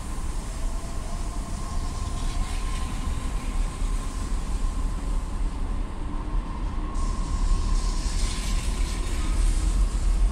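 Train moving on the tracks: a steady low rumble with a faint steady whine, and a hiss that joins in about seven seconds in and grows near the end.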